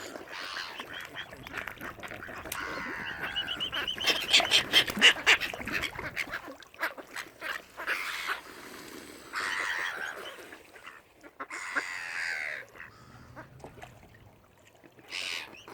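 Waterfowl at the water's edge calling again and again. There is a loud flurry of sharp noises between about four and six seconds in.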